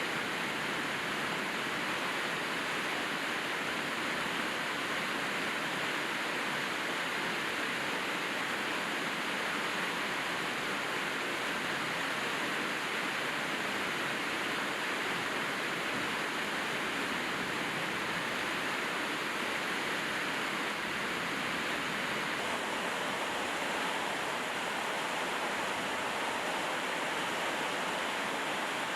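Steady rain falling, an even hiss of many drops with no single drop or break standing out.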